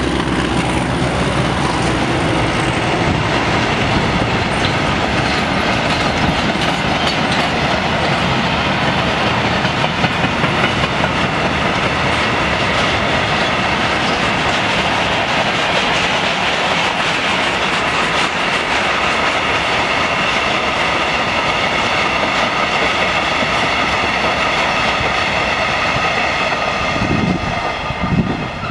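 Freight wagons of a long goods train rolling past at close range: a steady rumble of wheels on rail with clickety-clack over the rail joints, and steady high-pitched wheel squeal running through it. The DE 24000 diesel locomotive's engine dies away in the first couple of seconds, and the sound gets quieter near the end.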